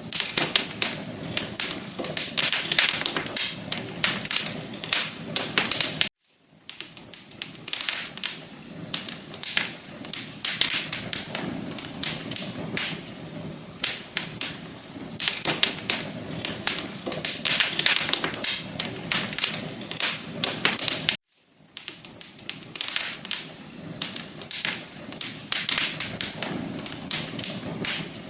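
Wood fire crackling in a fireplace: a dense, irregular run of sharp pops and snaps over a low rush of flame. The sound cuts out for a moment twice, about six seconds in and again about twenty-one seconds in.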